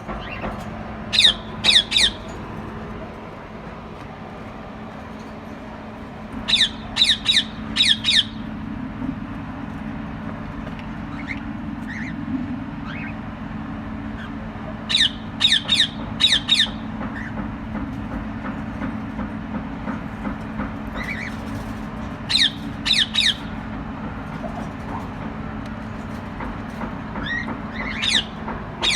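Caged lovebirds giving short bursts of three or four sharp, shrill squawks, repeated about every six seconds over a steady low hum.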